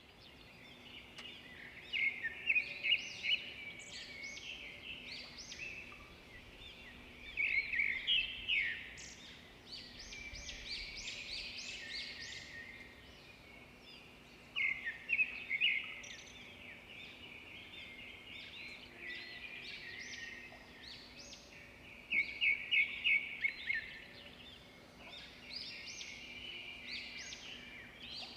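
Birds chirping and singing, many short high notes overlapping, with louder runs of rapid repeated chirps every several seconds.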